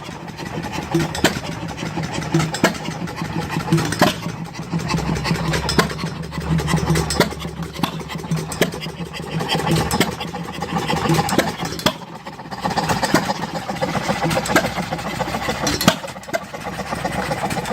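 An engine idling with a steady low hum that grows louder in the middle, with scattered clicks and knocks.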